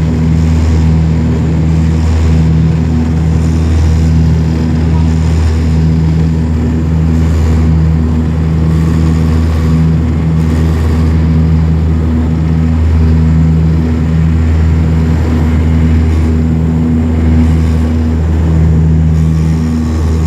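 Bombardier Dash 8 twin turboprop engines and propellers running at takeoff power: a loud, steady, deep propeller drone with a throbbing hum.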